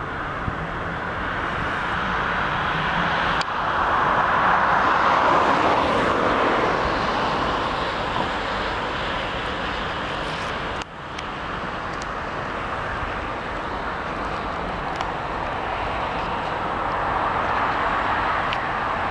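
Steady rolling noise of a freight train passing, louder about four to six seconds in, with an abrupt break about eleven seconds in.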